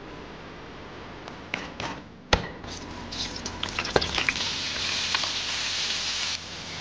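Pieces of squab sizzling and crackling as they pan-fry in hot oil in a frying pan, beginning after a sharp clack a little over two seconds in, with a few light clicks of chopsticks against the pan. The sizzle cuts off abruptly near the end.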